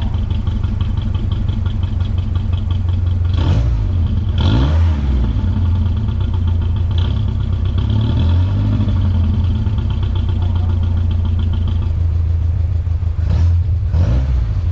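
Datsun Sunny Truck's four-cylinder engine idling with a low, steady exhaust note. It is blipped to quick revs twice about three to four seconds in and twice more near the end.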